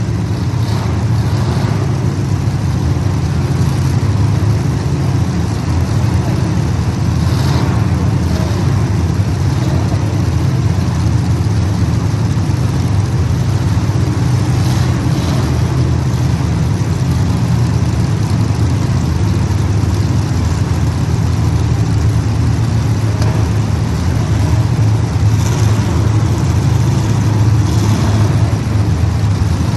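Several racing engines running together as the field circles the track, a steady loud drone with brief swells as vehicles pass closer.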